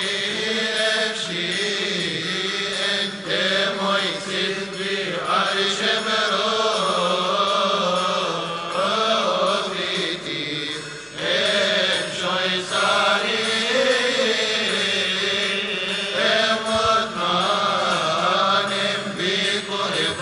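Male voices of Coptic monks chanting an Arabic madih (praise hymn) together, with melismatic melody lines and a steady high tone running underneath.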